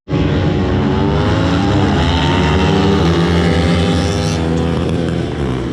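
Motorcycle engines running hard at a race, the pitch dipping and rising again as they rev.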